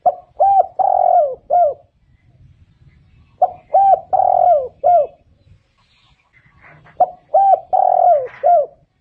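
A spotted dove singing its cooing phrase three times, about three and a half seconds apart. Each phrase is a few short coos around one longer, drawn-out middle coo.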